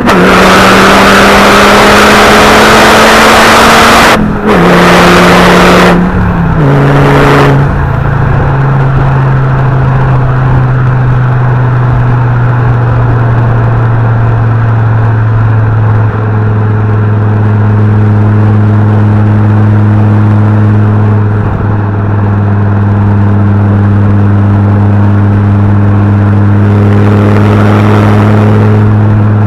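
Fiat Coupe 20V turbo's inline five-cylinder engine and exhaust under way. It pulls hard with a loud rush over the engine note, and the note drops at shifts about 4 and 6 seconds in. It then settles into a steady, even drone at constant revs for the rest of the time.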